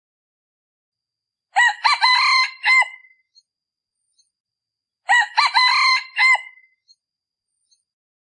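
A male decoy junglefowl crowing twice, about three and a half seconds apart, in the short clipped crow of a junglefowl. It is a lure call for drawing in wild junglefowl.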